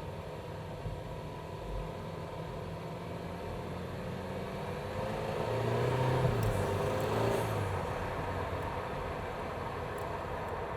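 BMW B48 2.0-litre turbocharged four-cylinder, Stage 1 tuned, heard from inside the engine bay: idling steadily, then a short rev about five seconds in that rises and falls back to idle within about three seconds.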